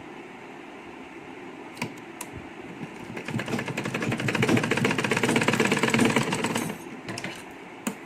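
Sewing machine stitching in one run of about three and a half seconds, starting about three seconds in and stopping short, sewing down the pleats of a fabric face mask. A few single clicks come before and after the run.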